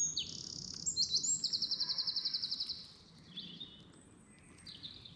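Small songbirds singing: high, quick chirps and a long rapid trill about a second in, fading to faint calls after about three seconds.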